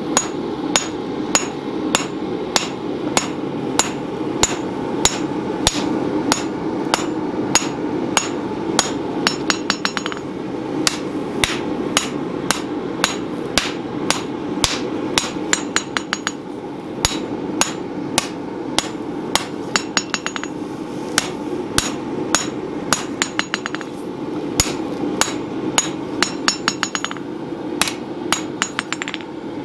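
Hand hammer forging a red-hot steel blade on an anvil, at about two blows a second. Quick runs of lighter taps come now and then between the blows, over a steady hum.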